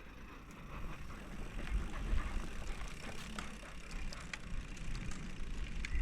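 Bicycle being ridden: a steady low rumble of wind on the microphone, with scattered clicks and rattles from the bike.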